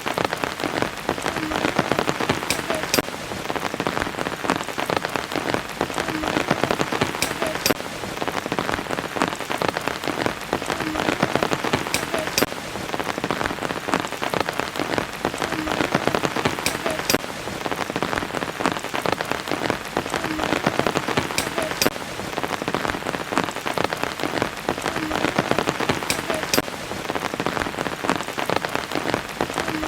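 Steady rain falling, a dense scatter of drops with now and then a sharper, louder drop. The same pattern of louder drops recurs about every five seconds.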